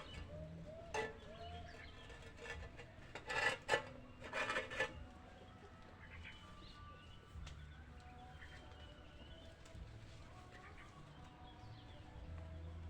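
Chickens clucking, with a few loud knocks and clatters from about three to five seconds in as the old coop is taken apart.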